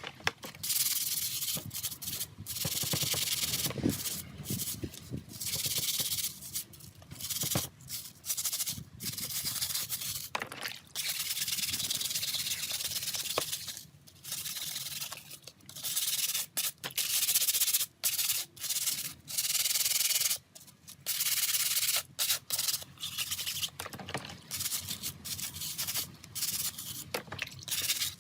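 Hand rubbing or sanding strokes on a phone part: a high, hissy scrubbing that comes in runs of a second to a few seconds with short pauses between them.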